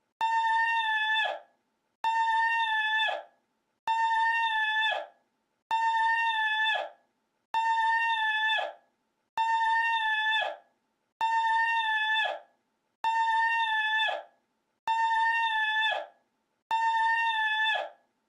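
A short, high-pitched cry held on one pitch and dropping at the end, repeated identically about every two seconds: the same recording played over and over in a loop.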